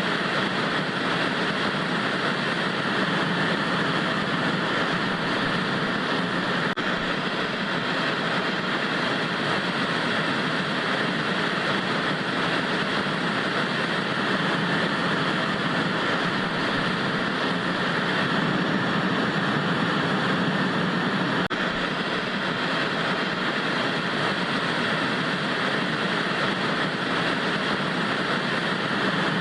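Vintage TV static: a steady, unchanging hiss of white noise.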